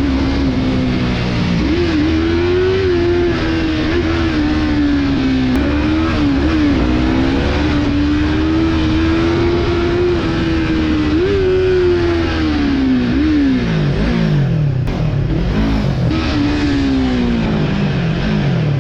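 Yamaha MT-03's parallel-twin engine running under way, its pitch rising and falling with throttle and gear changes. Near the end the pitch sinks steadily as the bike slows.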